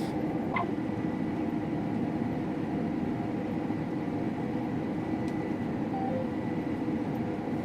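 Steady drone of a combine harvester running while cutting wheat, heard from inside the cab, with a thin steady whine over it. A few short electronic beeps sound about half a second in and again around six seconds in.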